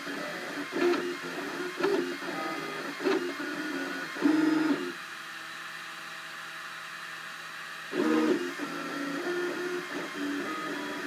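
Cubify 3D printer's stepper motors whining in short moves that keep jumping in pitch as the print head travels, with a steadier, quieter hum for about three seconds in the middle.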